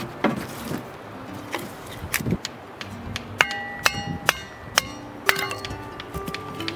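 Hatchet blows driving sticks of kindling down onto a cast-iron ring kindling splitter: a run of sharp knocks about every half second, over light background music.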